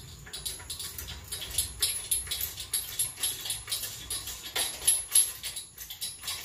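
Irregular metallic clinking and rattling, a run of short clatters with the loudest pair about five seconds in, as metal parts are handled while the engine is being pulled out of the car.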